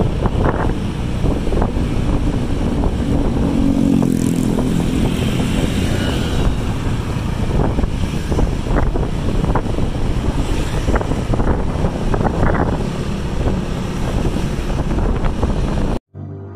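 Loud wind buffeting the microphone over a dense low rumble, with scattered crackles. It cuts off abruptly near the end.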